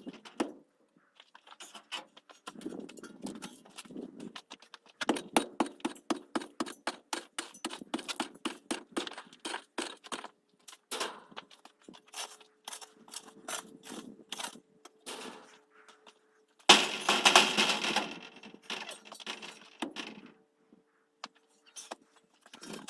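Hand-tool work: quick runs of sharp knocks and clicks, several a second, with a louder burst of scraping about seventeen seconds in.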